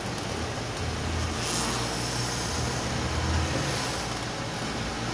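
Car engine running at low revs, its note swelling a couple of times as the car's tire is eased up onto a deflated ATV tire's sidewall to break the bead.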